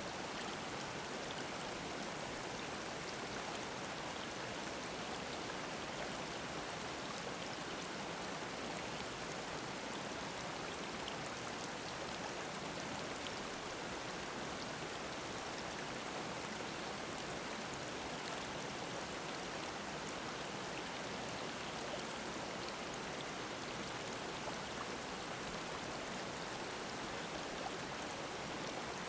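Mountain stream babbling: a steady, unbroken rush of flowing water.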